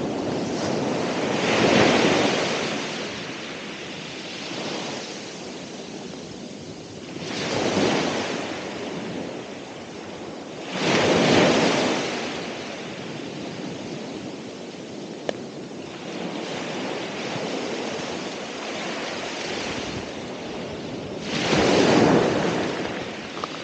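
Ocean waves breaking on the shore: a steady wash of surf with four bigger waves surging and fading, at about 2, 8, 11 and 22 seconds in.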